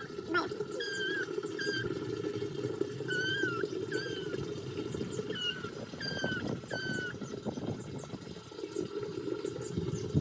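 Chickens calling, short wavering high-pitched calls repeating about twice a second over a low, steady rustling.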